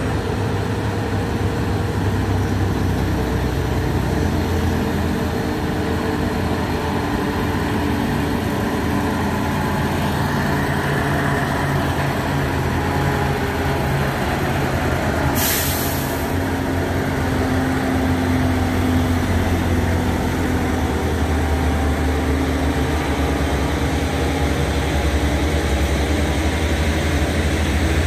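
Heavy truck's diesel engine running steadily on the climb, with a short sharp hiss of released air about halfway through.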